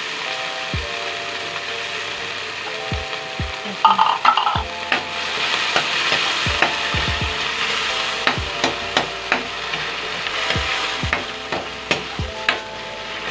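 Canned corned chicken sizzling as it fries in a stainless steel wok, stirred and scraped with a metal utensil that clicks and knocks against the pan. There is a short loud clatter about four seconds in.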